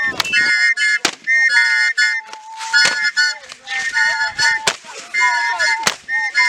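Traditional dance performance: shrill held whistle-like tones blown again and again, with a lower wavering voice-like line and several sharp percussive strikes, such as stamps or claps, spread through it.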